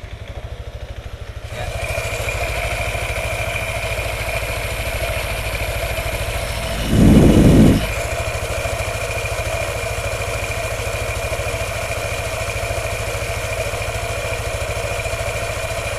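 Yamaha NMAX scooter idling, with a light 'klotok-klotok' rattle from its CVT. The owner blames the rattle on loose rubber slider pieces on the variator's roller housing and calls it mild, not yet bad. A brief, louder low rumble comes about seven seconds in.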